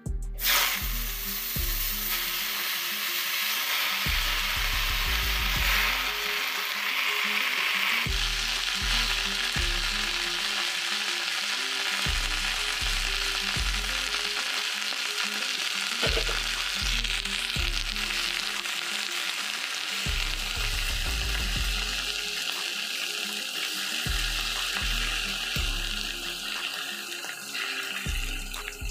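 Lafa (mallow) greens sizzling in hot oil in a frying pan, the hiss strongest in the first several seconds and settling a little after. A background music track with a steady beat plays underneath.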